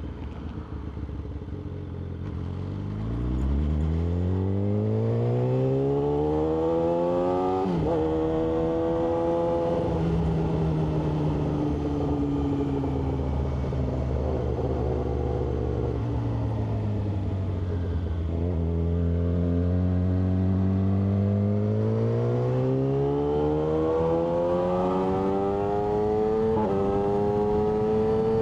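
Yamaha R6 inline-four sport-bike engine pulling away from low revs, its pitch climbing to a sharp break about eight seconds in as it shifts up. It then holds and slowly eases off before climbing again through two more gear changes.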